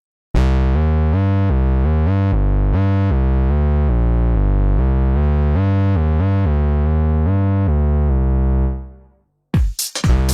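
Waldorf Pulse 2 analog monosynth playing a bass preset: a bass line of quick notes stepping up and down in pitch, which fades out near the end. Just before the end a new patch starts with sharp, clicky percussive hits.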